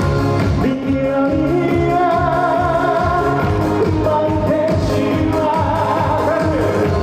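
Upbeat trot medley sung live over a backing track with a steady beat.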